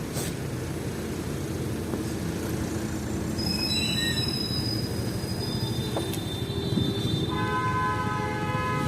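Low rumble of a passing vehicle, with a high squeal from about three and a half seconds in, then a horn sounding near the end.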